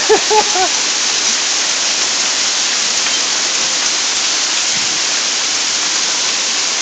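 Heavy hail and rain coming down together, a dense steady hiss of pelting that holds at one level throughout.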